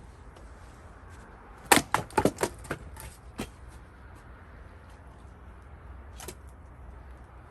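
Sharp wooden knocks and clatter from splitting cherry firewood: about six quick hits in under two seconds, the first the loudest, then a single knock near the end.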